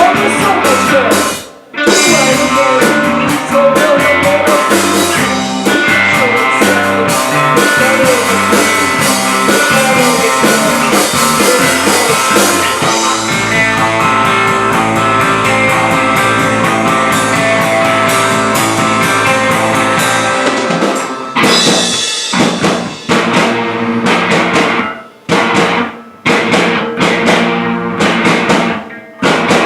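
Rock band playing live: drum kit and electric guitar at full volume. The music cuts out briefly about a second and a half in, then stops and starts in short gaps through the last third.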